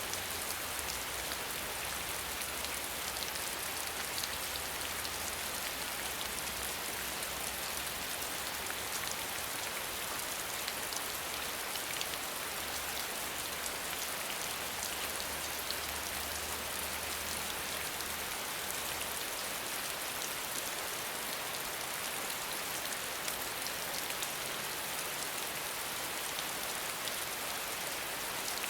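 Steady rainfall, an even hiss of rain with scattered individual drops ticking on a surface. A faint low rumble underneath stops about two-thirds of the way through.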